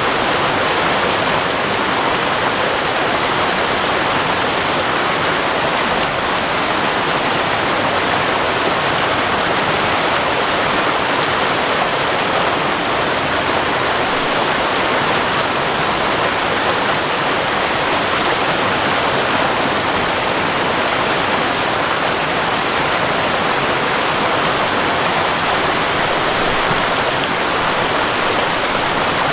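Waterfall pouring steadily, a constant rushing of falling water with no breaks or changes.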